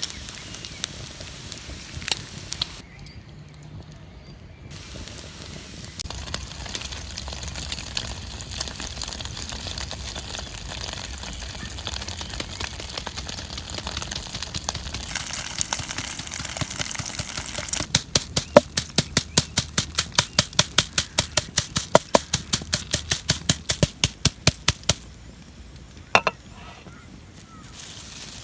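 Food sizzling and a wood fire crackling, with a steady hiss through the middle, then a run of quick, even knocks, about five a second, for several seconds near the end.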